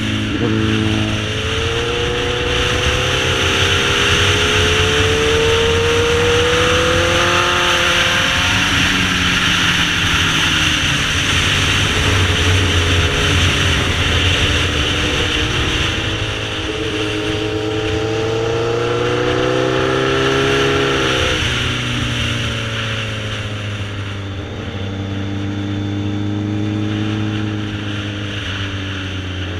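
Sportbike engine pulling through the revs, its pitch rising steadily and then dropping sharply about eight seconds in and again about twenty-one seconds in, over a steady rushing noise.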